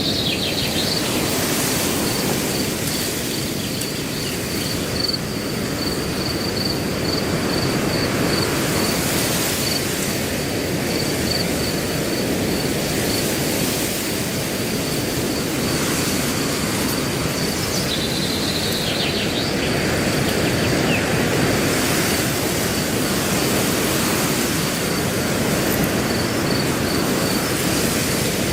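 Wind blowing through grass as a steady rushing, with a cricket chirping in a fast, even pulse throughout. A bird calls briefly at the start and again about two-thirds of the way through.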